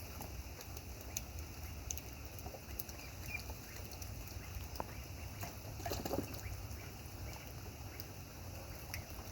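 Ducks splashing and dabbling in water during rain, with scattered patter and drips.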